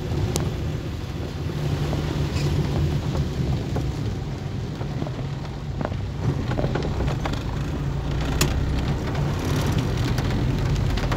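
Rain falling on a moving car, heard from inside the cabin over the steady low hum of the engine and tyres on the wet road. A few sharp ticks stand out now and then.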